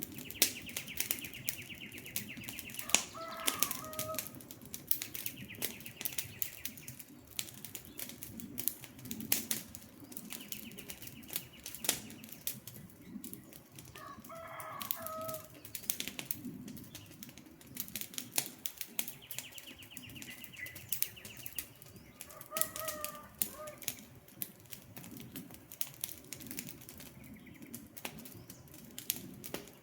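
Campfire crackling, with frequent sharp pops over a low rushing burn. A bird call sounds three times, a short two-note call, and a fast high trill comes and goes several times between them.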